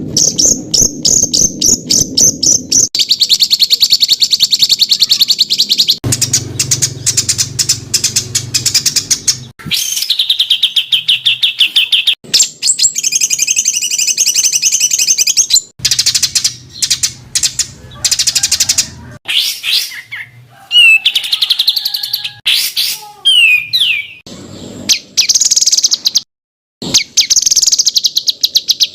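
Songbirds singing fast, harsh runs of rapidly repeated high notes, a spliced bird-song tutor recording that switches abruptly from one bird's phrase to another every few seconds, with some sliding whistled notes partway through.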